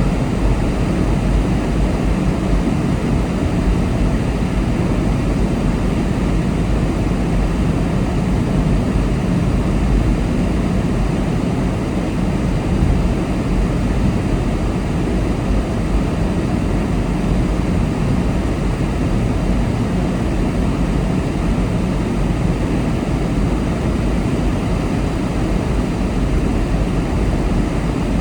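Steady road noise of a car being driven at speed: a constant low drone of tyres on the road and engine, with no change across the stretch.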